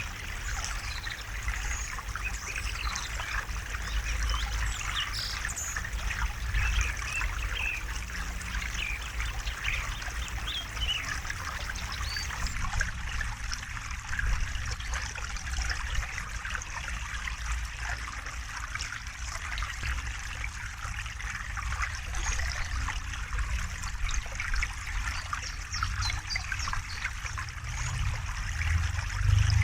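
River water flowing and trickling steadily, an even rushing with fine splashing and a low rumble underneath.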